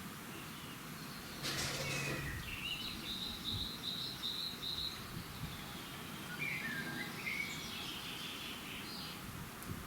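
Dawn chorus of several birds singing and calling over steady outdoor background noise. One bird gives a quick run of about eight even notes in the middle. Near the start there is a short rustling burst.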